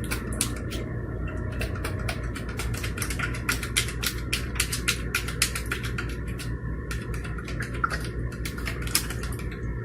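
Rapid, irregular clicking or tapping, several clicks a second, over a steady low hum; the clicks thin out near the end.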